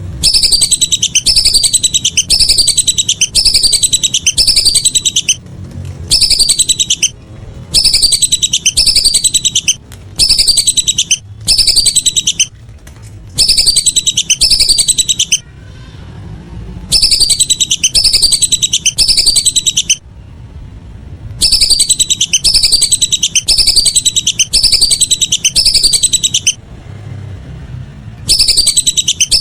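Lesser whistling ducks calling: rapid runs of high whistles, each falling in pitch, in loud bursts of one to four seconds with short pauses between.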